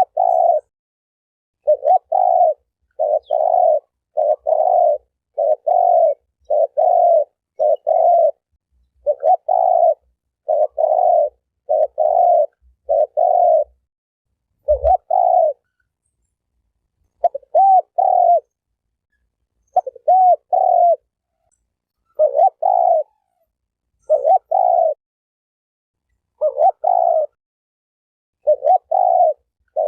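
Spotted dove (terkukur) cooing: short, low coo phrases repeated about once a second, with a few longer pauses. A single low thump comes about halfway through.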